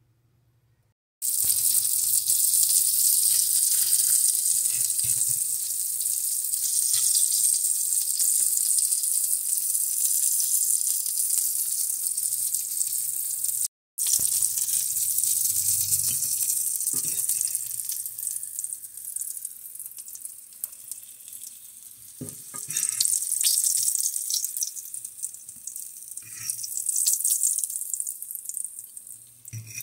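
Breaded slices frying in hot oil in a cast-iron skillet: a loud, steady sizzle that starts abruptly about a second in. It breaks off for a moment near the middle and grows thinner in the second half, where a few short knocks are heard.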